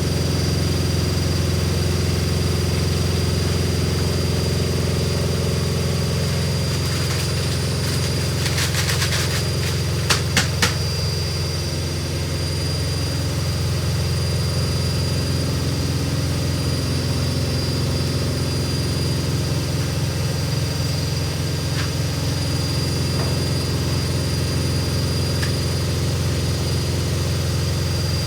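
Hoover Ecologic Computer Washer 1300 washing machine spinning fast: a steady motor and drum hum with a high whine over it. A brief rattle and three sharp clicks come about ten seconds in.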